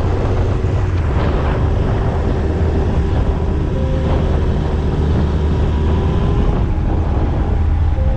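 Yamaha YZF-R1 inline-four engine running at a steady pace while riding, under a constant rush of wind noise on the microphone.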